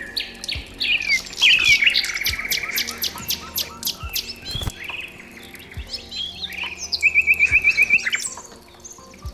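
Several songbirds chirping and calling over one another in quick short notes and glides, with a fast trill of about ten repeated notes a second about seven seconds in.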